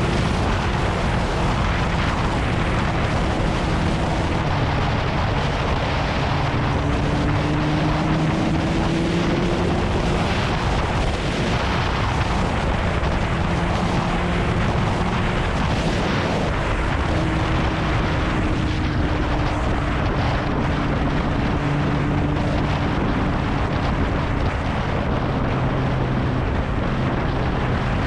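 Kawasaki Ninja ZX-9R's inline-four engine running on the move, its note drifting gently up and down with the throttle, under heavy wind rush on the microphone.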